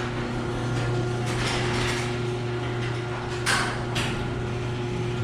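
Electric garage door opener motor running with a steady hum as it drives the door open, cutting off suddenly at the end of travel.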